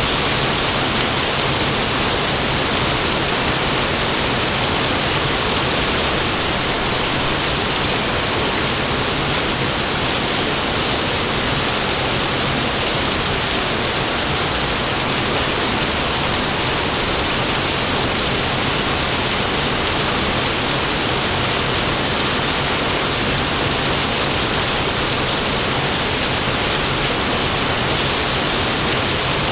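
Heavy rain falling steadily: a dense, even hiss with no thunder and no let-up.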